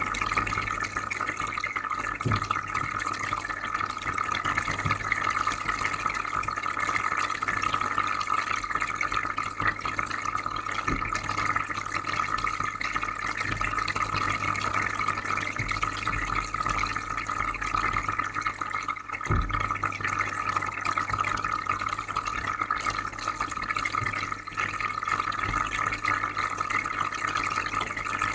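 Aquarium filter running: steady trickling, bubbling water over a low electrical hum, with a couple of faint soft thumps.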